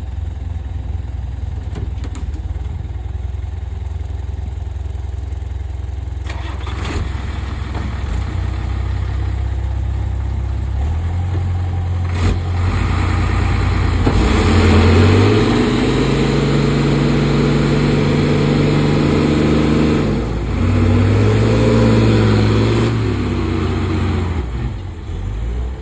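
Heavy diesel engine of earth-moving equipment running low, then revved up about eleven seconds in and held hard under load, its pitch shifting up and down, with a brief dip about twenty seconds in before rising again and easing off near the end.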